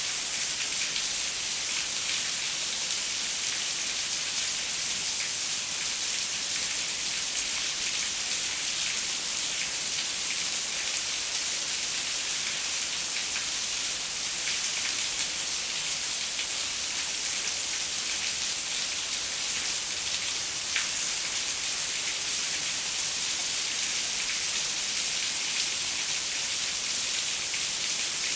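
Steady rain pattering on a window, an even hiss of drops with scattered sharper ticks.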